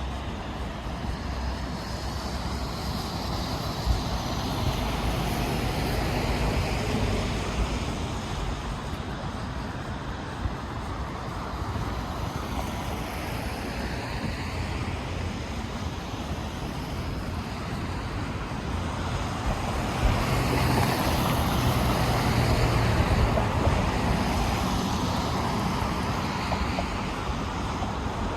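City road traffic passing close by: a steady rush of cars going past, swelling as vehicles come near, loudest about two-thirds of the way in, with one short knock about four seconds in.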